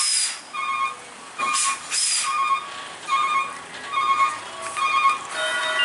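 A truck's warning beeper sounding short electronic beeps about once a second, broken by short sharp hisses of air. Near the end, a steady sound of several held tones starts up.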